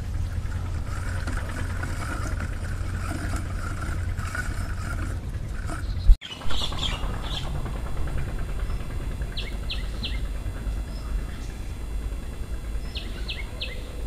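Small birds chirping in short, high notes in quick groups of three, twice in the second half, over a steady low rumble. A faint steady hum runs through the first five seconds, and a sharp click comes about six seconds in.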